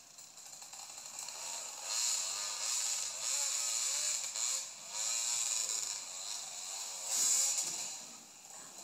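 Dirt bike engine revving, its pitch rising and falling repeatedly, heard thin and tinny through a small camera speaker over a steady hiss.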